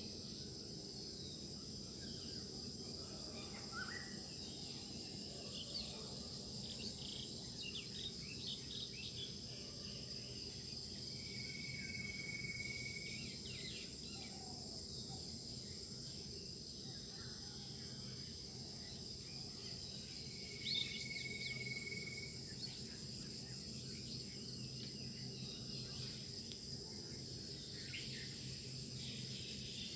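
Garden dawn chorus: a steady high insect trill from crickets under scattered short bird chirps. Twice, about ten seconds apart, a bird gives a long level whistled note.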